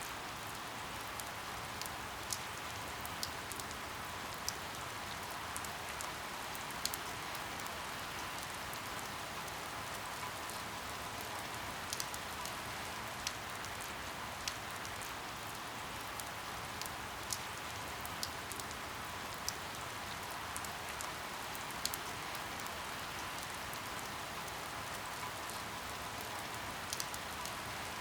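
Steady rain falling, with irregular sharp drip ticks about every second or two.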